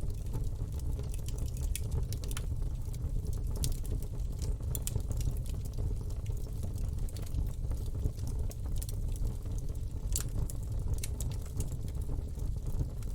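Campfire burning: irregular crackles and pops from the burning wood over a steady low rumble of the fire.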